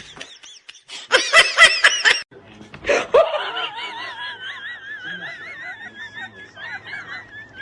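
A person laughing in a burst of loud, short peals, followed by a quieter, long, high wavering sound.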